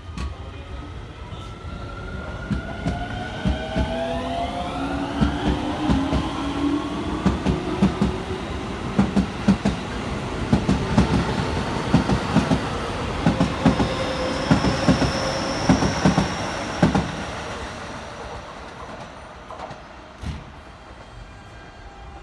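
Keio 9000-series electric train pulling out: the traction motors' whine rises in pitch a few seconds in, then the wheels give a quick clickety-clack over the rail joints as the cars pass, and the sound fades away near the end.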